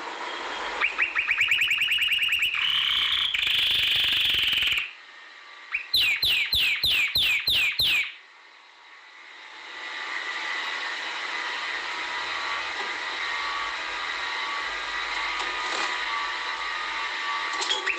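Domestic canary singing: fast trills of rapidly repeated notes, then a buzzy rolling phrase that cuts off abruptly, then about seven quick down-slurred whistles. After that the song gives way to a steady hiss with faint thin chirps.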